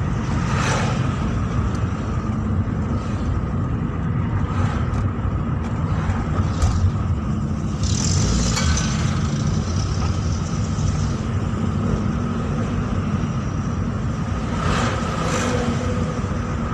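Car driving in town traffic: a steady low rumble of engine and road noise, with a few brief swells of passing noise about a second in, around eight seconds in and near the end.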